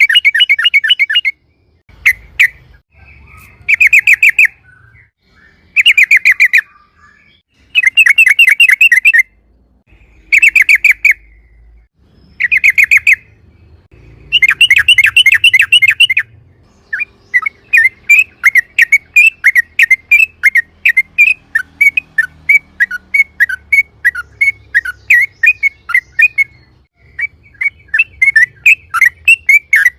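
Yellow-vented bulbul song, loud and close: rapid rolling trills about a second long repeated with short gaps, then about halfway through a long series of separate sharp chirps, two or three a second, with one brief break. This rolling 'ropel' song is the kind used as a lure to set other bulbuls singing.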